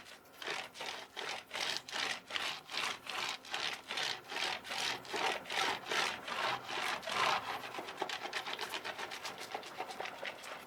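Rhythmic back-and-forth scrubbing strokes while cleaning a keyboard, about three a second. About eight seconds in they become quicker and lighter.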